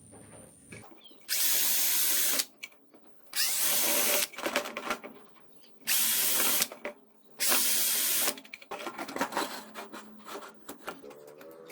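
Electric drill run in four short bursts of about a second each, with brief pauses between, followed by light clicks and handling noises.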